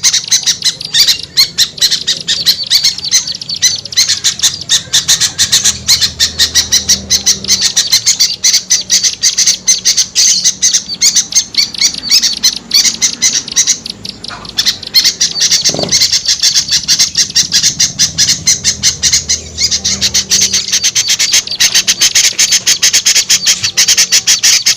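Small birds calling together in a dense, rapid chatter, many short high calls a second without a break: a bird-lure recording of agitated small songbirds, used to draw small birds down.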